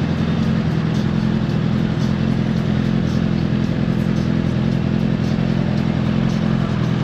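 Superbike engine idling steadily at a constant pitch, with no revving.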